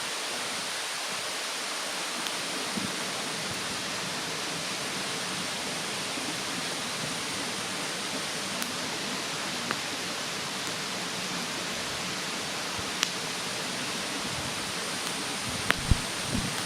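Campfire wood burning in a fire-pit stand, giving a few sharp pops and crackles, the loudest two close together near the end, over the steady rushing of a mountain stream.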